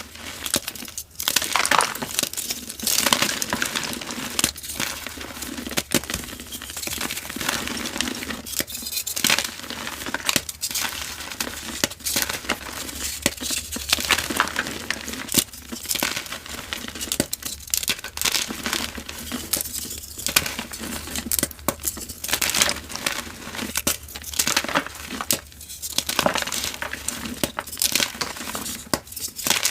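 Dyed gym chalk being crumbled and crushed: continuous dry crunching and crackling with frequent sharp snaps.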